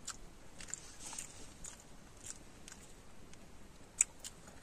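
Someone chewing a sandwich close to the microphone: soft, irregular mouth clicks and smacks, with one sharper click about four seconds in.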